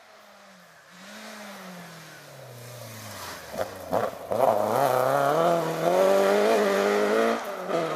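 A rally car approaching on a forest stage: its engine note falls as it slows, a few sharp cracks come about four seconds in, then the engine gets much louder and climbs in pitch as it accelerates hard past.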